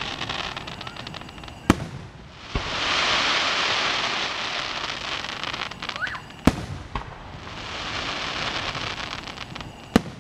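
Fireworks display: aerial shells bursting with sharp bangs, about two, three, six and a half and ten seconds in. Between them come long stretches of dense crackling hiss from the bursts.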